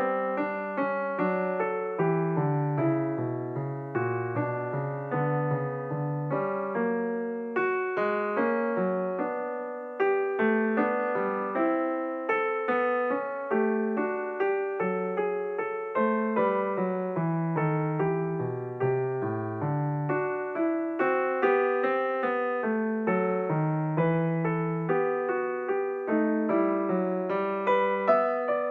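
Background piano music: a steady stream of notes played at a moderate pace.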